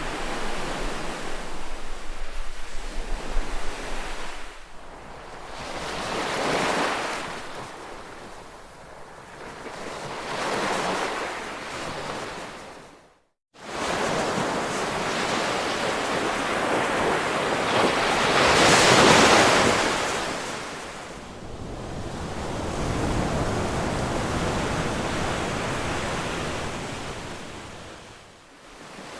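Ocean surf: waves washing in and receding in slow swells, the largest about two-thirds of the way through. About halfway through the sound cuts out completely for a split second, then resumes.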